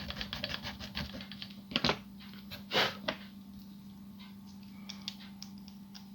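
Small hand file rasping quickly on a plastic model part, a rapid run of short strokes, followed by a few louder scrapes and knocks and then scattered light clicks as the part is handled and test-fitted.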